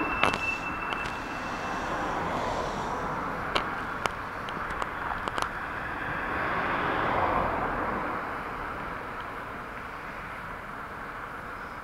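Keikyu 600 series electric train rolling slowly over the depot tracks, its wheels clicking sharply over rail joints several times, most of them about four to five and a half seconds in. A brief high squeal sounds right at the start. The running noise swells a little around seven seconds in, then fades as the train moves into the shed.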